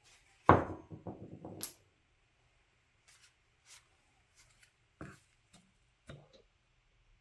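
Metal parts or tools clattering on a hard work surface: one loud strike with a short ringing rattle, ending in a sharp bright clink, then two softer knocks a few seconds later.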